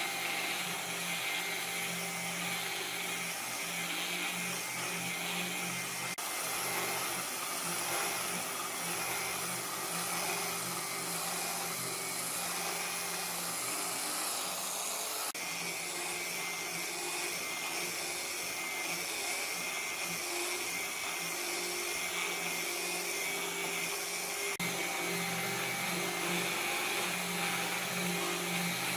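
An electric power tool's motor whirring steadily at high speed, in several stretches joined by abrupt cuts.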